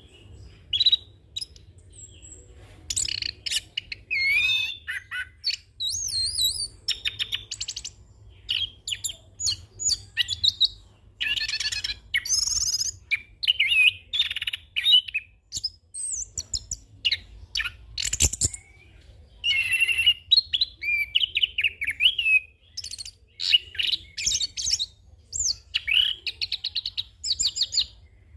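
Chestnut-capped thrush (anis kembang) singing a long, continuous rolling song of varied phrases: rapid trills, whistled glides and chattering notes with short pauses between them. A single sharp click is heard about eighteen seconds in.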